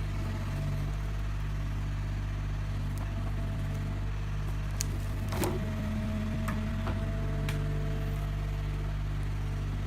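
Heavy forestry machine's diesel engine running steadily, with a few faint knocks and clicks about halfway through.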